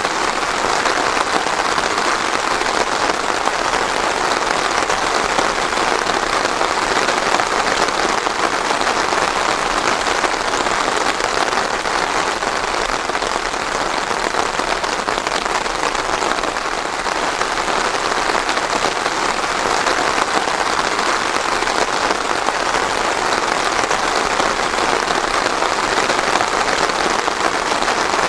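Steady rain falling, an even, dense patter with no thunder.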